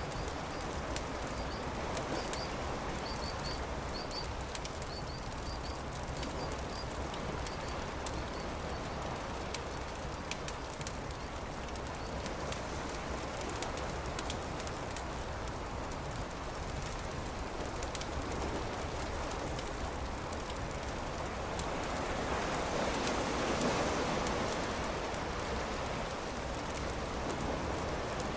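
Campfire crackling, with scattered small pops over a steady rushing hiss. It swells louder for a few seconds past the two-thirds mark. A bird gives a run of short, high chirps during the first several seconds.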